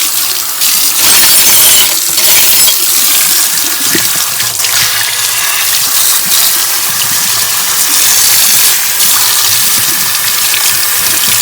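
Water running steadily in a loud hiss, with a cleaning cloth being rinsed out under it to wash the dirt off.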